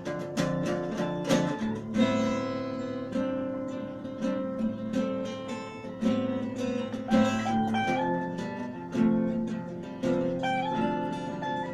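Acoustic guitar music, plucked and strummed notes in a steady rhythm.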